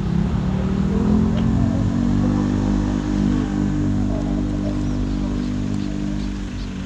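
A motor vehicle's engine running close by. It rises slightly in pitch over the first couple of seconds, then holds a steady note and slowly fades near the end.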